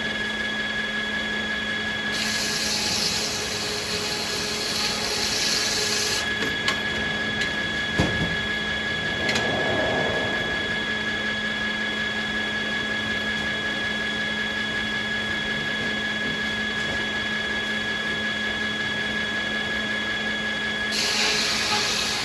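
Sawmill machinery running with a steady whine, joined by a stretch of louder hissing from about two seconds in to six seconds and again near the end, with one sharp knock about eight seconds in.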